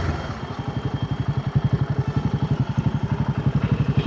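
Royal Enfield Himalayan 450's single-cylinder engine running at low revs while riding, a rapid, even pulsing that grows louder about a second and a half in.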